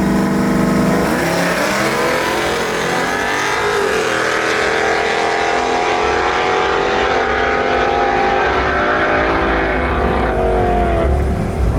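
Truck engine revved hard and held at high revs for several seconds, its pitch wavering, then dropping back near the end.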